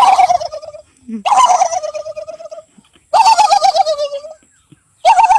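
A man imitating a turkey's gobble with his voice: four loud, warbling gobbles, each about a second long and sliding down in pitch, with short gaps between them; the fourth begins near the end.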